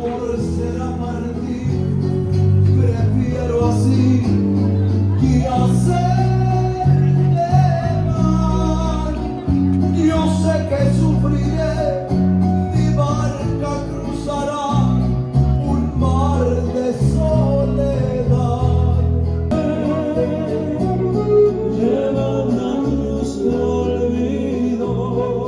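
Mariachi band playing and singing: a male voice over strummed guitars and a deep, plucked bass line.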